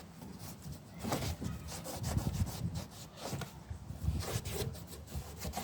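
A run of uneven rubbing strokes on a surface, one quickly after another.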